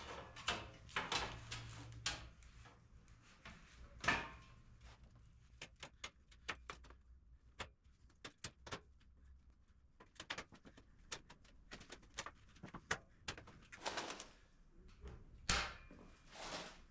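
Steel modular welding table being rolled across the floor on 3-inch rubber swivel casters, with irregular clicks and knocks and a few longer rolling scrapes; the casters have some play in their bearings.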